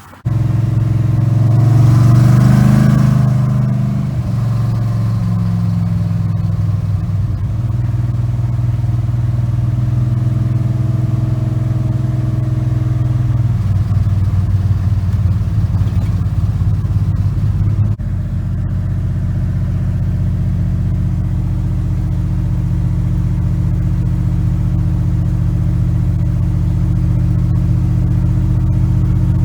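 1975 GMC Sierra Classic pickup's 350 small-block V8 revved once about two seconds in, then running steadily at an even low pitch. The tone shifts slightly about eighteen seconds in.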